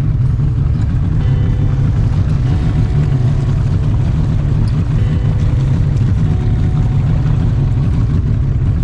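Mercury XR4 V6 two-stroke outboard running steadily at speed, pushing a bass boat across open water, heard as a loud unbroken low rumble.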